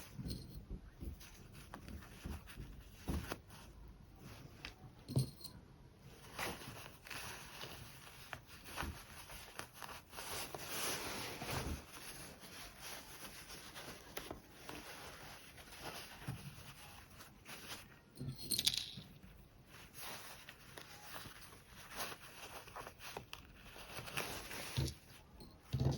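Fabric being handled during sewing work: irregular rustling and scraping of cloth, with scattered light clicks and taps.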